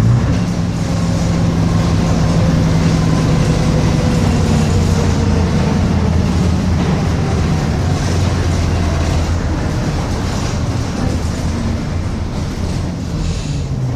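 Bristol RELL6L bus under way, its engine and drivetrain running with a whine that falls slowly in pitch, easing a little toward the end. The engine fitted is not the type the bus was built with.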